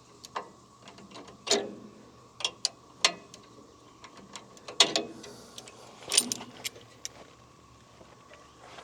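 Irregular metal clicks and clinks of a wrench working the adjustment nuts on a bandsaw sawmill's head, with a few louder knocks among them.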